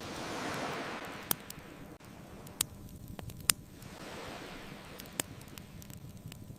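Ocean waves washing in slow swells, one cresting just after the start and another about four seconds in, with a wood fire crackling in sharp pops, four louder ones standing out.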